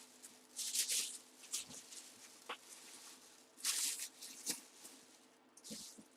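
Rustling of packaging being handled, in three short bursts with a few light clicks and knocks between them.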